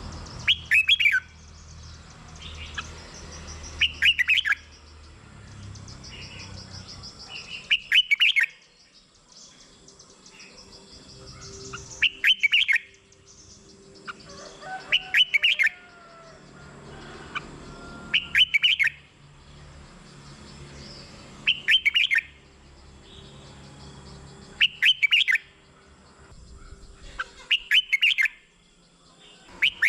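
Red-whiskered bulbul singing: short, loud song phrases repeated about every three seconds, nine in all.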